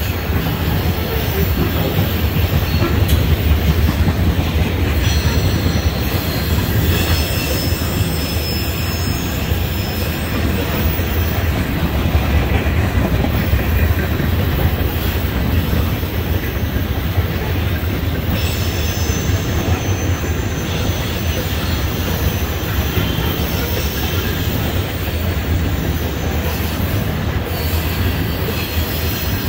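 Tank cars of a freight oil train rolling past: a steady rumble and clatter of steel wheels on the rails, with a faint high wheel squeal now and then.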